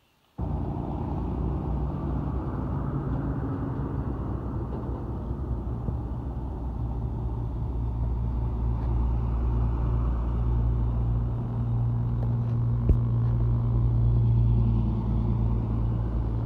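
A truck running on the road, with a steady low engine drone and road rumble that starts abruptly just after the start. A single sharp click comes about 13 seconds in.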